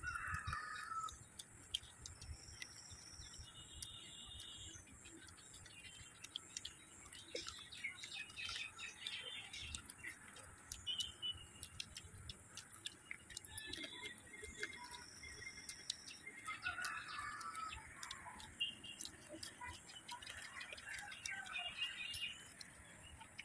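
Birds calling in the background: a short whistled phrase of high, flat notes heard twice, about twelve seconds apart, among other chirps. Many small clicks and smacks of people chewing and tearing fried chicken run through it.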